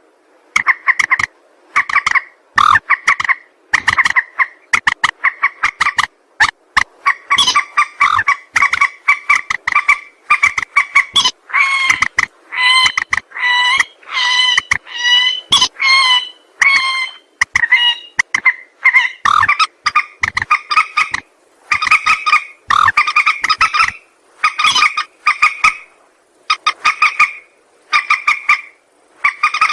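Mandar sawah, a rail, calling over and over in strings of short pulsed notes, a few a second. In the middle of the stretch the notes come faster and waver in pitch. This is the call used to lure the bird for trapping.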